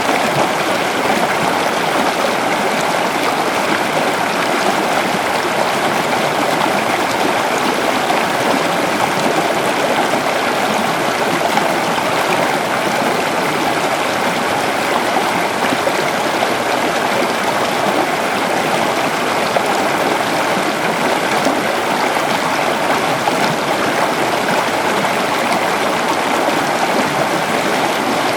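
A shallow river flowing steadily, water rushing and splashing over rocks in an even, unbroken noise.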